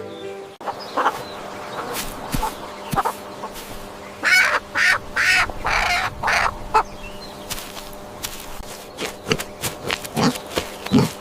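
Farm poultry calling: a run of about five loud, harsh calls in quick succession about four seconds in, with shorter, lower calls near the end.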